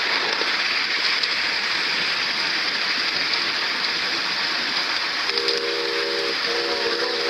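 Ride-on train running with a steady rushing hiss, and about five seconds in, two held blasts of a chime-toned train whistle, each about a second long.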